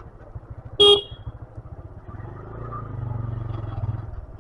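Motorcycle engine running with a low, pulsing note, cut through by one short, loud vehicle-horn toot about a second in; a deeper engine rumble swells from about two seconds on.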